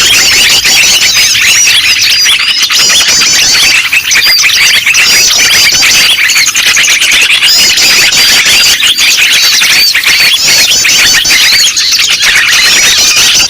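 Many small songbirds chirping and calling at once in a dense, continuous, high-pitched chatter of overlapping short whistled chirps, with no pauses. It is a 'noisy birds' lure recording of the kind played to draw small wild birds in.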